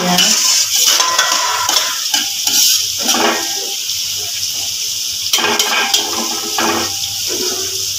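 Raw shrimp sizzling in hot oil in a wok, with a steady hiss, while a metal spatula stirs and scrapes against the pan in repeated short strokes.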